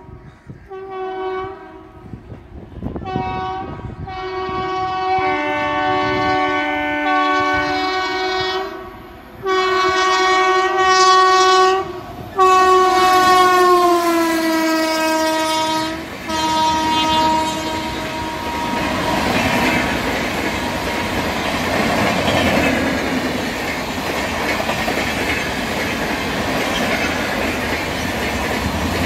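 Indian Railways electric locomotive's horn sounding several short blasts, then long blasts whose pitch slides down as the locomotive passes at speed. After that the coaches run past with steady wheel-on-rail noise and clickety-clack.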